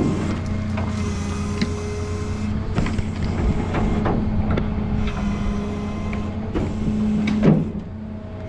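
Rollback tow truck running steadily, with a humming tone that cuts out and restarts several times, and scattered knocks and clanks of wood and metal being handled.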